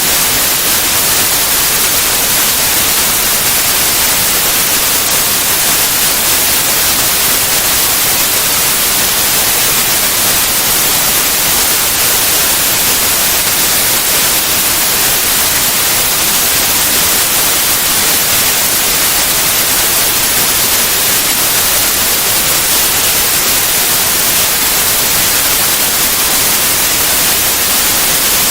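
Steady white noise: an even, unchanging hiss across all pitches, brightest in the treble, with no breaks or other sounds.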